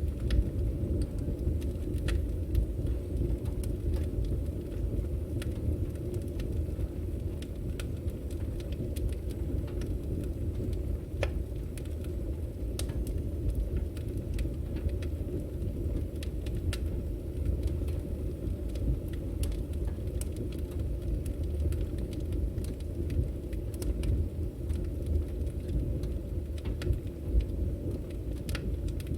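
Firewood burning in a wood fire: a steady low rumble of flame with scattered sharp crackles and pops from the logs.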